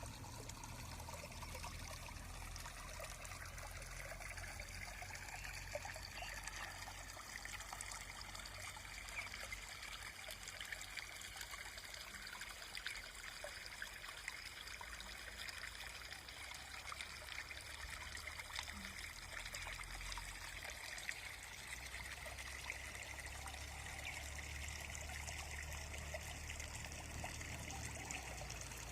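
Steady trickle of running water, an even babbling with no breaks, over a faint low rumble.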